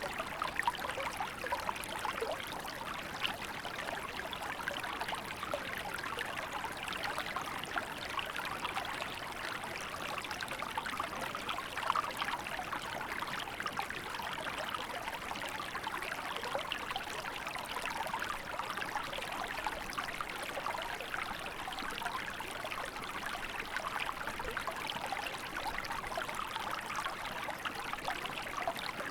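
Small river flowing in winter, a steady babble of water with many small splashes and trickles.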